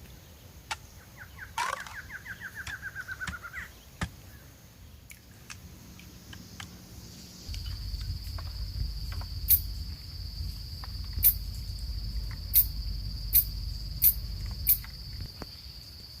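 Forest ambience: a bird gives a short falling trill near the start. About halfway in, an insect's steady high-pitched buzz sets in over a low rumble, and six sharp clicks sound through the second half.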